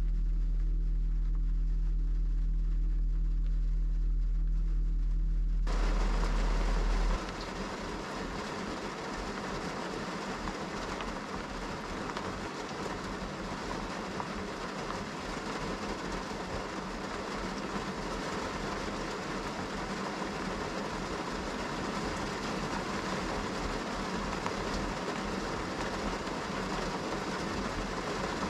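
A steady low hum for the first several seconds, then heavy rain: a dense, even hiss of downpour that starts abruptly about six seconds in and keeps up without a break.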